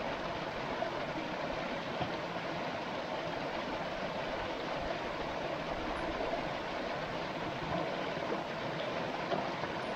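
Steady rushing noise like running water, even throughout, with a few faint clicks.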